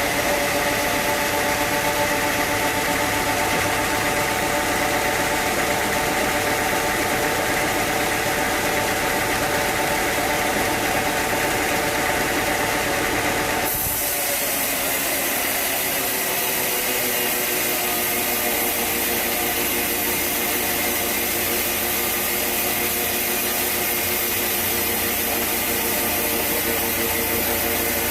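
Sawmill machinery running steadily with an engine-like hum. The sound changes abruptly about halfway through and then runs on steadily.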